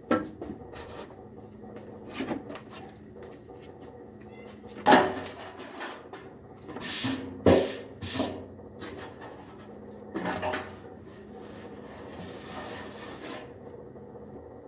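Scattered knocks, clunks and scrapes of a car's fuel tank and parts being handled and shifted into place under a 1966 Dodge Dart, the loudest knocks about five and seven and a half seconds in, with a longer scrape near the end.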